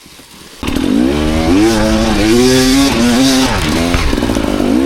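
Dirt bike engine revving hard under throttle, its pitch climbing and dropping with each twist of the throttle. It comes in suddenly about half a second in.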